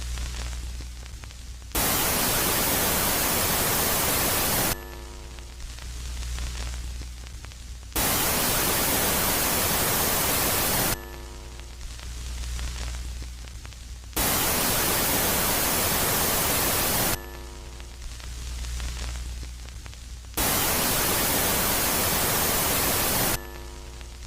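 Space-ambience noise presented as the sound of Jupiter's moon Megaclite: a loud static-like hiss that switches on and off abruptly, alternating about every three seconds with a quieter phase of low hum and faint swelling hiss. The loud phase comes four times.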